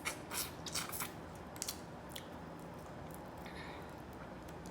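Eating and food-handling noises from a seafood meal: a few short crackles and clicks in the first two seconds, then only a faint, steady background.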